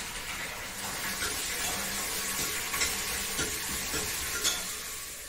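Food sizzling steadily in a pot on a gas stove, with a few light clinks of utensils and dishes.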